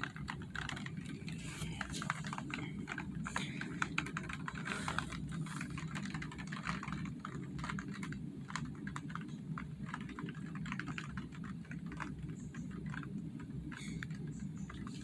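Rain: many irregular ticks of raindrops striking a hard surface close by, over a steady low background noise.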